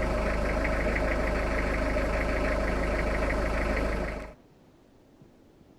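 Vehicle engine running steadily with a fine, regular pulsing, cutting off abruptly about four seconds in.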